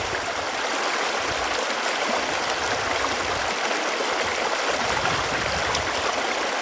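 Running water flowing steadily, with an even rushing and light gurgling.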